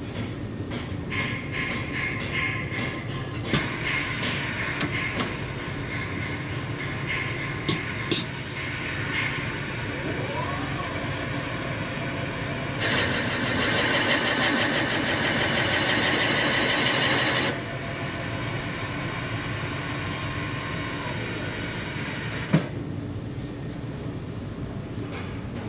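Machine shop machinery running with a steady hum, scattered metal clicks and knocks, and a louder harsh machining noise lasting about four seconds midway.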